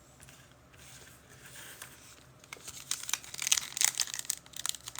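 A trading card pack's wrapper crinkling and tearing as the pack is opened, starting about halfway in and growing louder.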